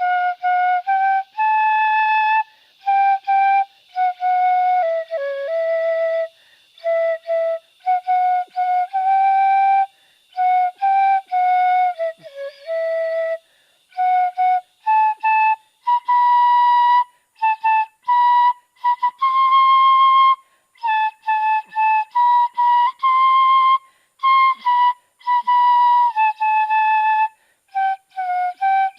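A dizi, the Chinese bamboo flute, played freestyle by a beginner: short notes and phrases broken by brief pauses, the melody sitting higher in the second half. Some notes land off pitch, flat or sharp, as a player still learning the instrument.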